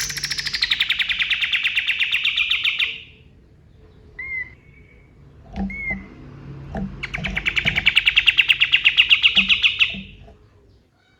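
Kapas tembak songbird singing two long, fast trills of rapidly repeated sharp notes, the first dropping slightly in pitch as it starts. Between the trills come two short upswept chirps and a few low knocks.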